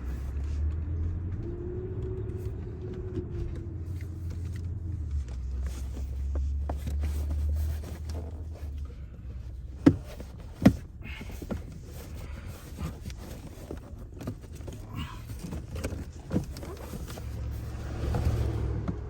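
Low rumble with hand work inside a car's rear seat area: two sharp knocks about ten seconds in, then lighter knocks and rustles as parts are pushed into place.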